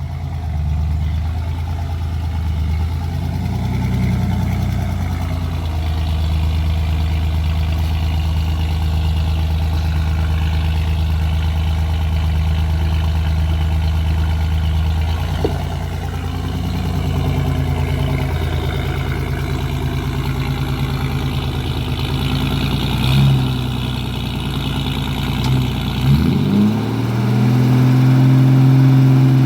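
Off-road vehicle's engine running at low revs, a steady low drone. The revs shift a few times, then rise near the end and hold higher.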